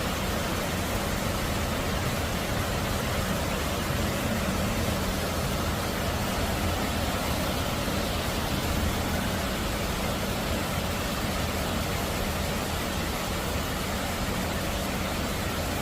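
Steady rain falling, an even hiss with a low rumble beneath it and no distinct events.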